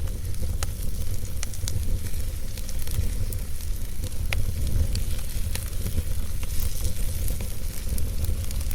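Campfire burning, with scattered sharp crackles and pops from the wood over a steady low rumble and a soft hiss.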